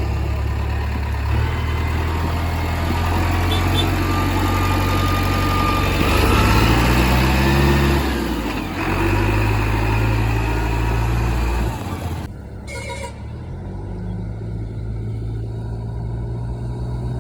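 JCB 3DX backhoe loader's diesel engine running hard, its pitch rising in a rev about six to eight seconds in and falling back. About twelve seconds in the sound changes abruptly to a quieter, steadier engine note.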